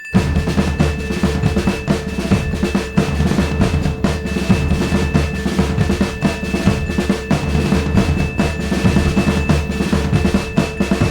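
N gauge model train running on the track: a steady motor whine over a low rumble, with a dense rapid clatter of wheels on rail.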